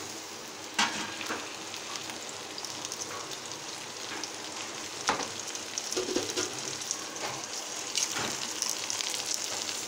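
Onions sizzling in hot oil in a pan as chopped tomatoes and ginger-garlic-green chili paste are added to them, a steady frying crackle. A few sharp taps stand out, about a second in, around the middle and near the end.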